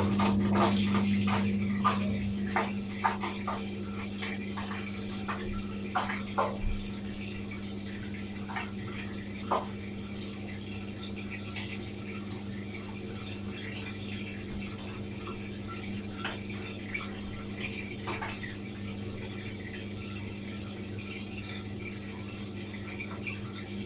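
Atlant washing machine running water through itself, with a steady low electric hum from its water valve or pump. Scattered light clicks in the first several seconds, and the sound eases slightly in level before settling.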